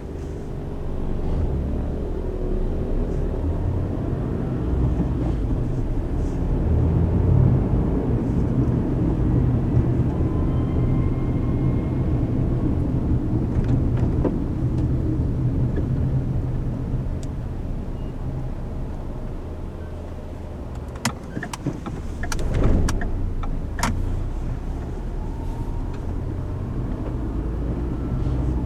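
Road noise heard from inside a moving car: a steady low rumble of engine and tyres that swells and eases with speed. A few sharp clicks or knocks come about three-quarters of the way through.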